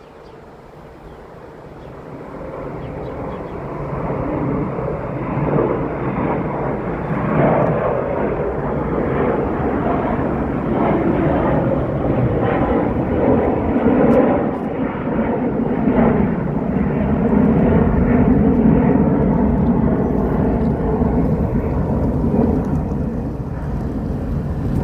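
Jet airliner's engines at takeoff power as the plane climbs out: a rumble that builds over the first few seconds, then stays loud and deep.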